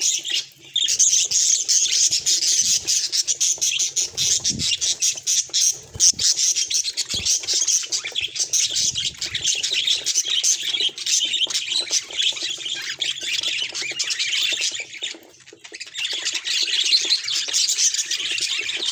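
Budgerigar chatter: a dense, continuous stream of high chirps and clicks that drops away briefly about fifteen seconds in.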